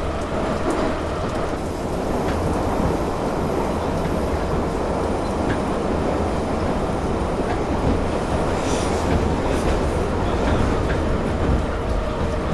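Steady rumble and rattle of a moving vehicle, with light clicks and a few faint high squeals about two-thirds of the way through.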